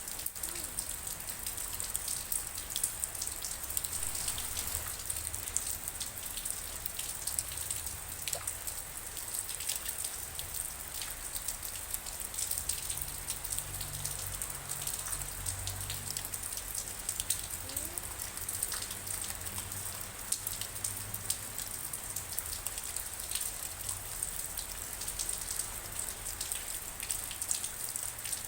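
Steady rain falling, with many individual drops ticking close by over an even hiss, and a faint low rumble in the middle.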